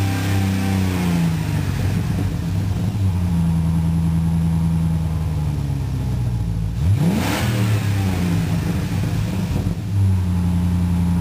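Jeep Grand Cherokee's 4.7-litre High Output V8 running through a Cherry Bomb muffler, with a steady exhaust note and a quick, sharp rev about seven seconds in.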